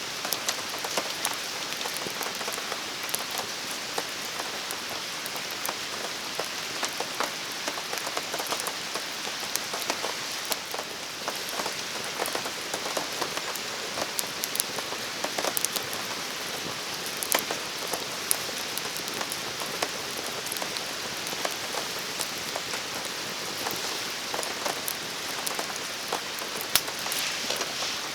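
Steady rain falling, a continuous hiss dotted with many irregular sharp taps of drops striking surfaces.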